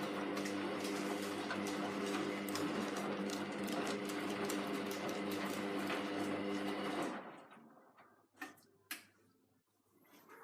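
Hoover Vision Tech washing machine running mid-cycle: a steady hum with a rushing, churning noise that cuts out about seven seconds in, followed by a few faint clicks.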